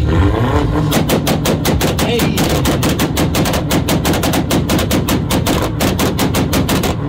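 A car engine held on a 2-step launch rev limiter, its exhaust popping and banging in a rapid, machine-gun-like string of about seven bangs a second, starting about a second in and stopping just before the end.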